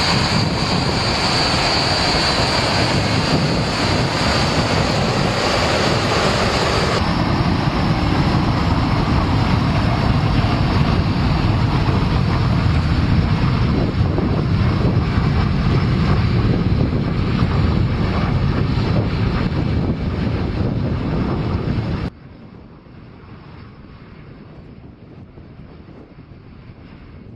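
F-86 Sabre's jet engine running loudly, a steady roar with a high whine that eases off about 7 seconds in. About 22 seconds in the roar cuts off abruptly, leaving much quieter wind noise on the microphone.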